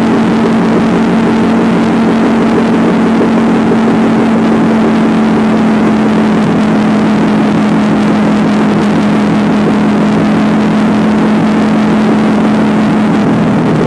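Motorcycle engine running steadily at an even speed, a constant hum over a rush of wind and road noise. Its pitch drops slightly near the end.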